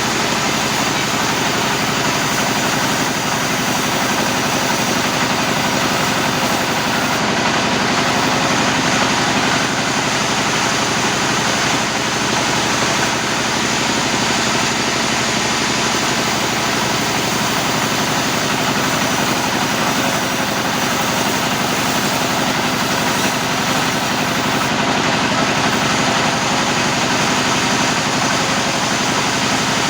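Sawmill machinery running steadily: a constant, even mechanical noise with a faint hum and no breaks or changes.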